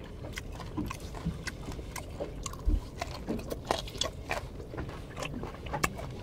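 A person chewing bone-in raw hairtail sashimi, the soft fish bones crunching in small irregular clicks. There is one dull low thump a little under three seconds in.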